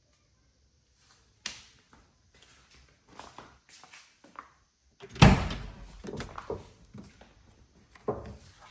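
Car door being worked on a 1969 Camaro: a sharp latch click about a second and a half in, then scattered knocks and handling noises. A heavy thud comes about five seconds in, the loudest sound, and a second thud near the end.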